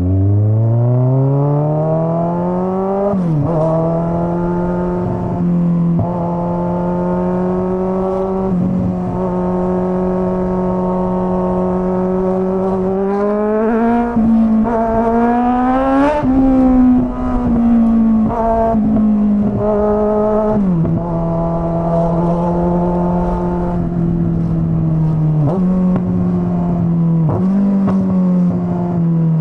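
Straight-piped Kawasaki Z900 inline-four motorcycle riding through town, its exhaust note climbing as it pulls away and then mostly holding a steady pitch. There are brief dips at the gear changes, a rise in revs about halfway through and a drop soon after. Near the end the revs fall away as it slows.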